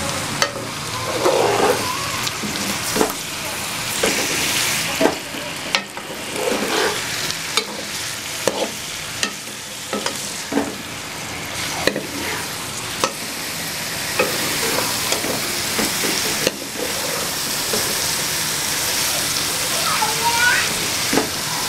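Chicken pieces sizzling as they fry in ghee in a metal pot, with a metal ladle scraping and clinking against the pot again and again as the meat is stirred.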